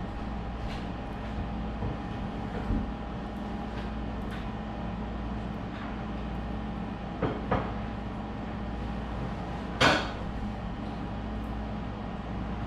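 A steady mechanical hum with a few light knocks, and one louder sharp clatter about ten seconds in.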